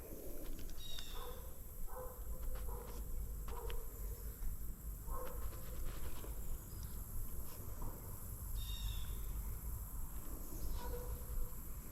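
A few short duck calls, faint and spaced out, over a steady low rumble.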